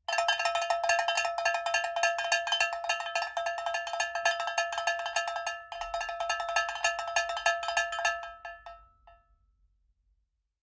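A small metal bell struck rapidly and steadily on one fixed pitch, several strikes a second, for about eight seconds, with a brief break a little past halfway. It stops and rings out briefly.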